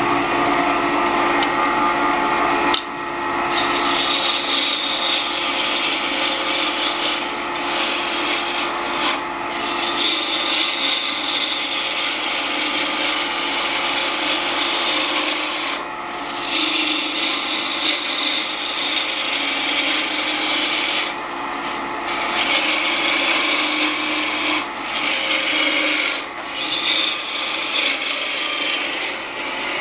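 A turning tool cutting wood spinning on a 1940 Wadkin RS wood lathe, a continuous cutting noise broken by several short pauses, over the steady hum of the lathe running at about 1500 rpm.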